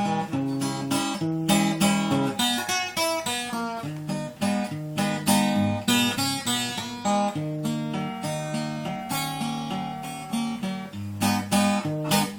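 Acoustic guitar strumming chords in an instrumental passage of a song, with regular strokes and a chord change every second or so.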